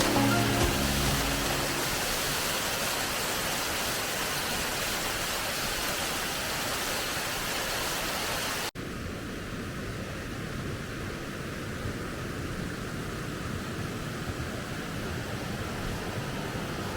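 Waterfall water rushing steadily. About eight and a half seconds in it switches abruptly to a duller, deeper rush with less hiss.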